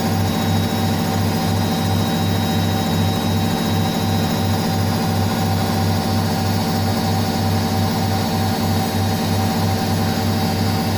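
Indesit IWSC5085 front-loading washing machine spinning steadily: a constant motor whine over a low hum that pulses about four times a second with each turn of the drum.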